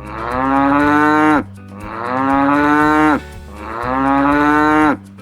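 Cow mooing three times, each moo a long, steady call of about a second and a half, with short pauses between them.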